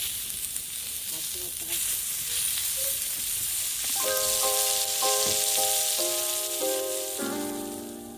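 Food sizzling steadily on a hot iron griddle over a rocket stove. A simple melody of held notes comes in about halfway through.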